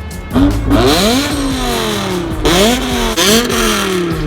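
BMW M car's engine being revved hard through its exhaust, three times: each rev climbs sharply in pitch and then sinks back, the first held the longest.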